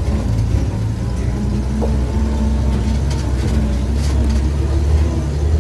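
A vehicle's engine running steadily at low pitch, heard from inside the vehicle.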